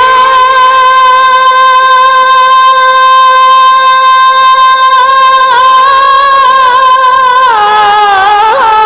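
A male singer holds one long, high, steady note for about seven seconds. Near the end he breaks into wavering ornaments that step down in pitch.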